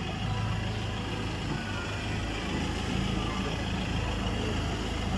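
Ford Ranger engine running steadily, a low even hum, now that it starts and runs after the ECU fault was dealt with.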